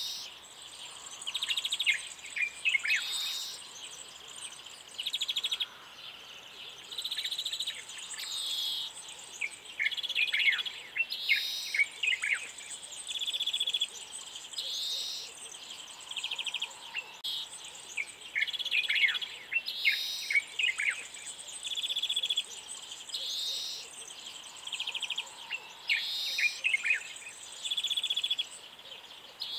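Birds singing and calling: short buzzy trills repeated every second or two, with bursts of quick downward chirps between them, over a faint steady high hiss.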